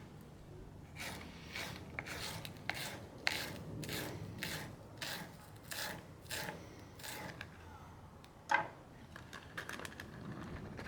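Green onion being cut up for the pasta, a string of short cutting strokes at about two a second, ending with one louder click.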